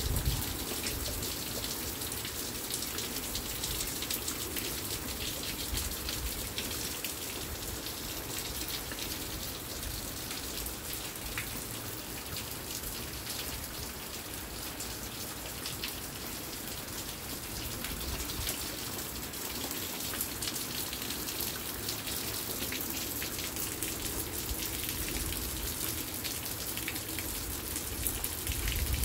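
Steady rain falling on a wet wooden deck and concrete patio: an even hiss made of many separate drop hits.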